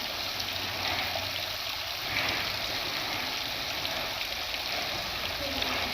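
Water running steadily from a tap or pipe fitting.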